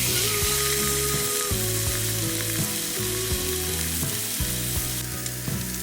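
Food sizzling as it fries in a pan, a steady hiss, under background pop music with held notes and a bass line.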